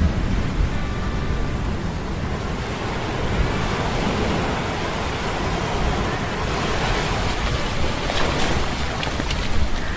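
Stormy sea ambience: waves and wind in a steady rushing noise, layered over a low hum of metal gears, with faint whining tones coming and going.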